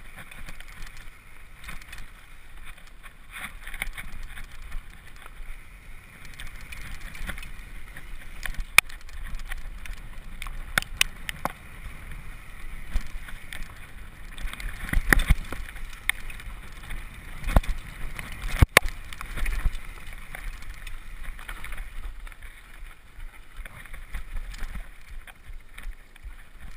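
Mountain bike descending a rocky trail: a steady rush of tyres over dirt and stones, broken by sharp knocks and clatters as the bike strikes rocks, loudest about two-thirds through, with wind rumbling on the microphone.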